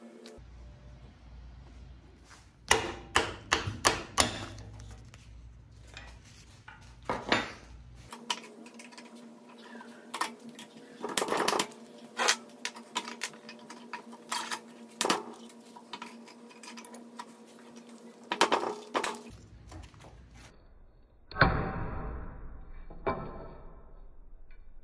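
Irregular metallic clinks, taps and knocks as small steel wheel axles and hand tools are handled on a steel bench vise, with one harder metal strike about three quarters of the way through that rings on briefly. A low hum runs underneath in the first third and again near the end.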